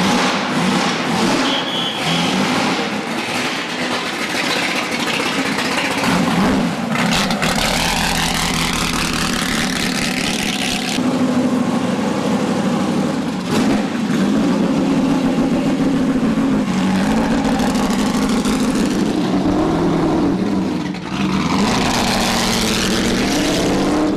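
Ford GT40s and GT40 recreations with V8 engines running and being revved as they pull away at low speed one after another, the engine note rising and falling. It is loudest as cars pass close, from about seven to eleven seconds in and again near the end.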